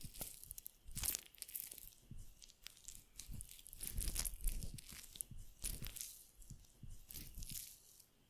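Close-miked ASMR skincare sounds: irregular crinkling, scratching crackles, tapering off near the end.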